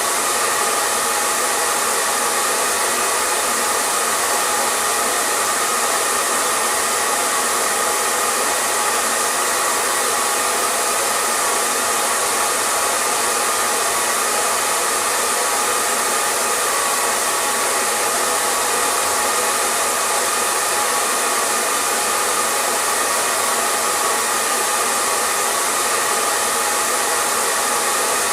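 Electric hair dryer running continuously at a steady speed: an even rushing of air with a steady motor hum and a slightly brighter tone in the middle of its range, unchanging throughout.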